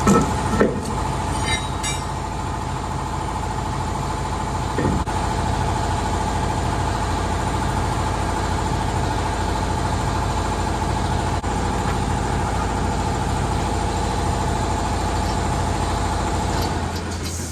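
Steady mechanical drone with a held mid-pitched tone over a low rumble. There are a few clicks and knocks in the first two seconds and a thump about five seconds in, and the drone gives way to a lower, steadier hum near the end.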